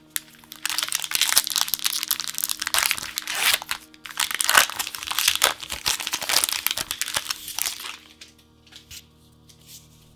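Plastic packaging of a pack of trading-card sleeves crinkling loudly as it is handled and opened, from about half a second in until near the end, then only faint handling ticks.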